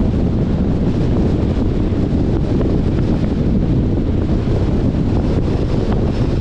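Steady road and wind noise from a 2021 Jeep Compass driving along, a constant low rumble with wind buffeting the microphone.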